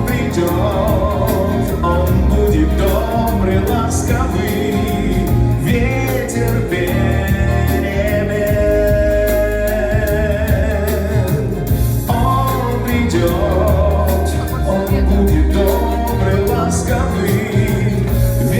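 A live band performs a song with singing over bass and drums. A long, wavering held note comes near the middle.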